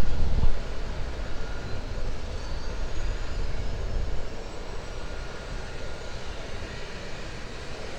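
Aircraft engine noise fading gradually as the aircraft moves away, with wind buffeting the microphone near the start.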